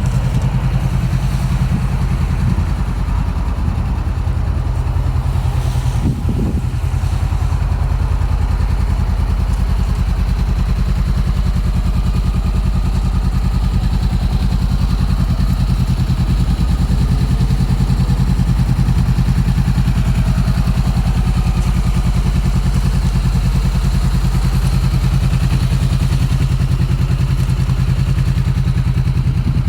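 2018 Honda CB500X's parallel-twin engine idling steadily through an aftermarket Black Widow exhaust.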